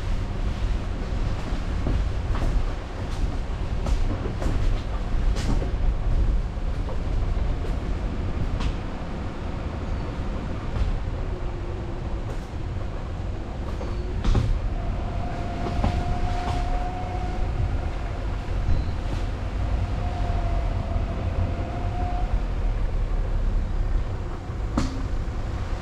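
A car driving along a road: a steady low rumble of tyres and engine, with scattered sharp knocks and rattles as it goes over bumps, and a faint whine twice around the middle.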